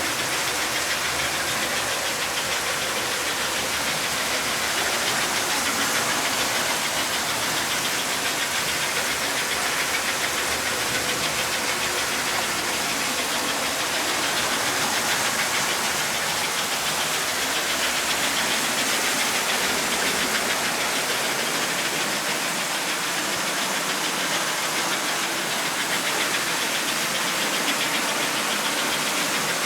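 Vintage American Flyer S-gauge toy steam locomotives running around the track: a steady mechanical noise of their electric motors and wheels on the rails.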